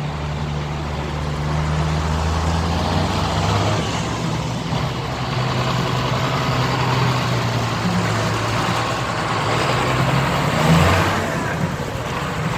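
Heavy vehicle engine running, a low steady hum that swells briefly near the end.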